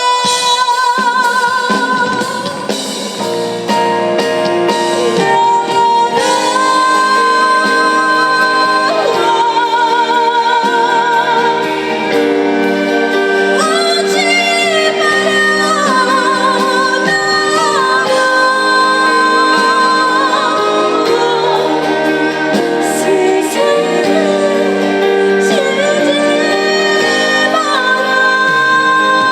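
A woman singing a trot song over instrumental accompaniment, her held notes wavering with wide vibrato.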